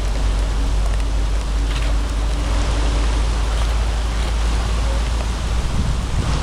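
Steady rush of floodwater draining through a cleared culvert, with a heavy low rumble underneath.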